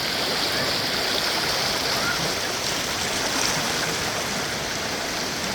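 Stream water rushing and splashing steadily, with no pauses or changes.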